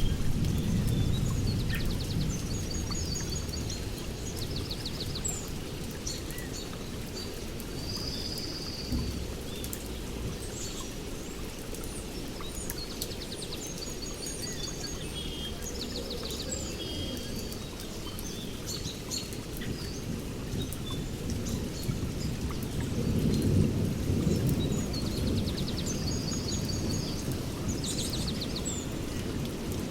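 Rainforest storm: rain falling with low rolling thunder that fades over the first few seconds and swells again a little past the middle. Birds call in repeated short trills and chirps throughout.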